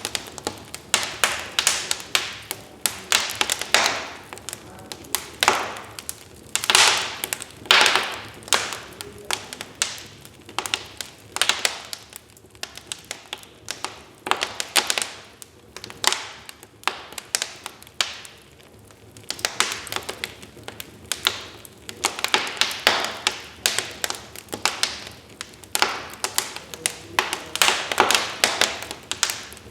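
Wood fire crackling, with irregular sharp pops and snaps coming in clusters and a few quieter stretches between them.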